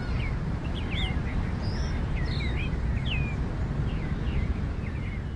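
Small birds chirping, with many short calls sweeping up and down, heard over a steady low rumble.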